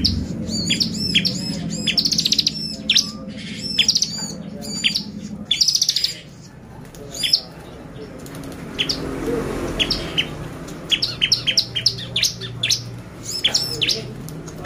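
Bar-winged prinia (ciblek) singing a lure song: rapid series of sharp, high chirps broken by fast buzzy trills, with a quieter pause about halfway through.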